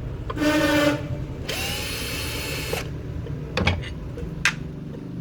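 Electric drill-driver running in two short bursts, the second about a second long, as the screws of a ceiling fan's body are undone. It is followed by a few sharp knocks.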